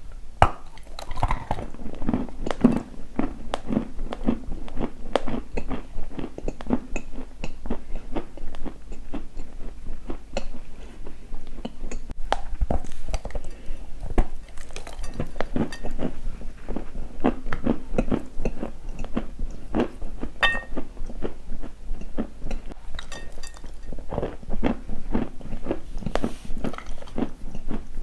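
Close-up crunching: a person biting into and chewing something hard and brittle, with dense, irregular crackles throughout.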